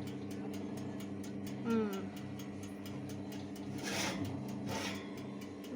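Oven running with a steady hum and a regular ticking pulse. Two short hissing bursts come about four seconds in.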